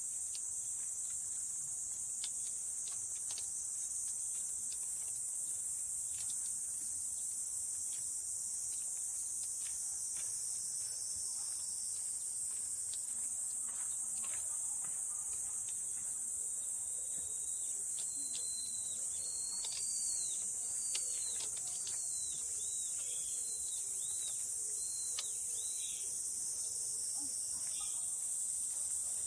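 A steady high-pitched insect chorus, with a bird joining about two-thirds of the way in with a run of about ten short, arched whistled notes.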